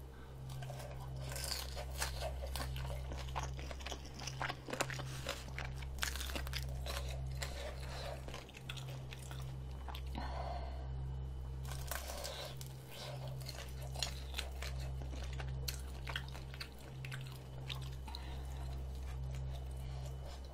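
Close-miked chewing and crunching on crisp fried dumplings, many irregular crisp bites and wet mouth sounds, over a steady low hum.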